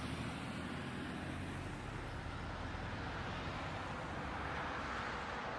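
Steady hum of a car engine with road noise while driving, as picked up by a dash cam.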